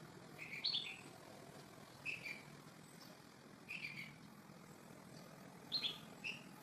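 A small bird chirping: four clusters of short, high chirps, each a quick run of two or three notes stepping down in pitch, coming about every second and a half.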